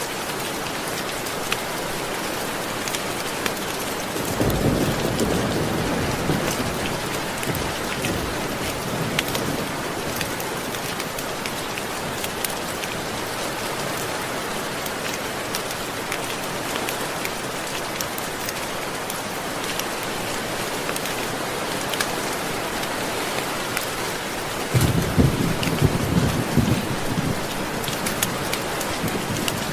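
Steady heavy rainfall with a low roll of thunder about four seconds in and another, louder one near the end.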